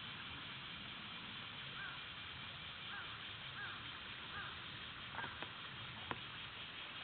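Cicadas shrilling in a steady hiss, with five short up-and-down calls from another animal over it and a few sharp clicks a little after the middle.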